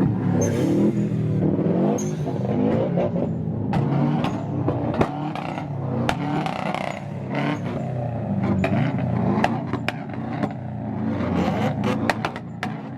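Car engine revving up and down repeatedly, its pitch rising and falling, with sharp cracks and pops scattered throughout.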